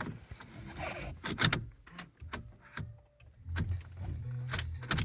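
Truck cab: sharp clicks and clunks of the gearshift going in with the clutch not fully depressed, then the diesel engine running with a low steady drone from about three and a half seconds in.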